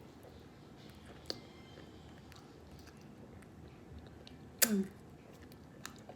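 Close-up mouth sounds of a person eating whole blue crab: quiet chewing and small clicks of shell, with a sharp click about a second in and one louder short mouth sound about two-thirds of the way through.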